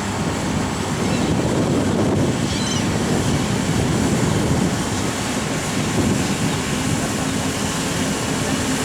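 Diesel engine of a Hydrema 912HM articulated water truck running steadily at work, a continuous heavy rumble.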